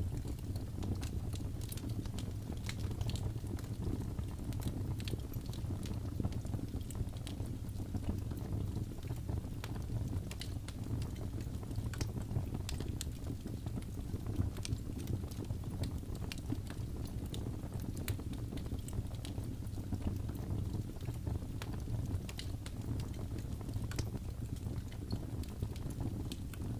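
Wood fire burning, with a steady low rumble and many scattered sharp crackles and pops at irregular moments.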